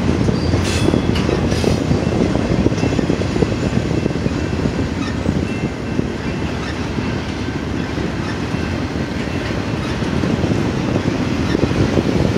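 BNSF double-stack intermodal freight train's container well cars rolling past, wheels on the rails giving a steady low rumble.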